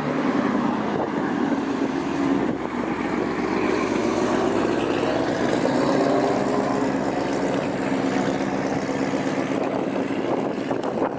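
A car engine idling, a steady low hum that shifts slightly in pitch midway.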